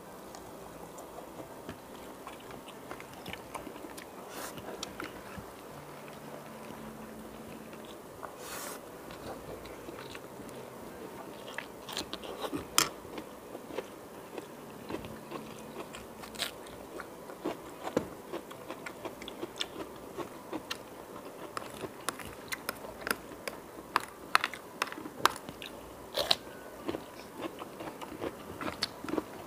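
Close-miked eating: a person biting into and chewing grilled chicken, with wet mouth sounds. Sharp crunchy clicks come more and more often in the second half.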